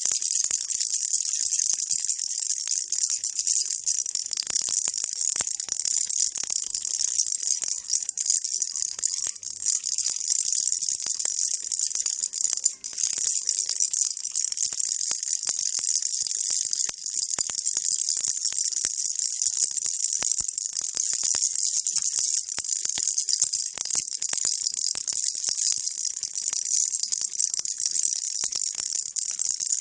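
A baby rattle shaken without stopping, making a dense, even stream of small bright clicks and hiss.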